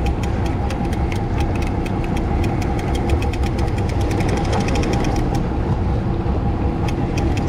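Boat engine running steadily under way, with a rapid series of sharp clicks over it.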